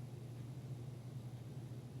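Quiet room tone: a steady low hum with faint hiss, unchanging throughout.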